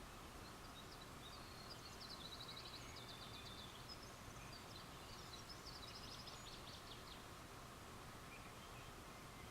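Faint, high-pitched chirping trills from a small calling animal at night, in two rapid runs of repeated notes, over a steady low hiss.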